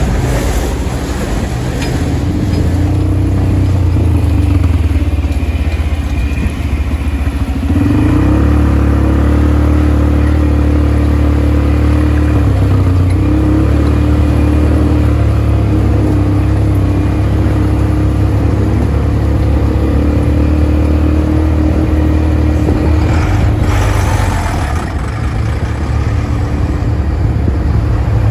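ATV engine running steadily, stepping up in pitch and loudness about eight seconds in, with a brief rush of noise near the end.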